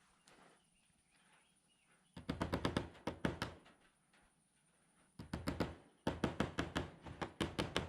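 Two bursts of rapid, rattling clicks, about ten a second, from a tool fastening the chicken tractor's frame: a short burst, then a longer one beginning about five seconds in.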